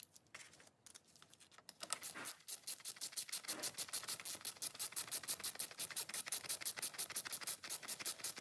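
Ratchet wrench clicking rapidly, about seven clicks a second, as it runs the oil filter cover bolts in on a Honda CBR 300R engine; the clicking pauses briefly near the start, then resumes steadily.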